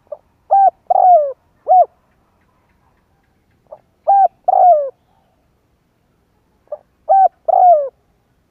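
Spotted dove cooing: three phrases about three seconds apart, each a short soft note followed by two or three loud coos, the last coo of each phrase sliding down in pitch.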